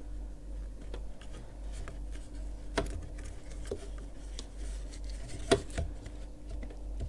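Crochet hook and yarn rubbing and scratching as stitches are worked around a wooden frame, with two sharp clicks about three and five and a half seconds in, the second the louder, over a low steady hum.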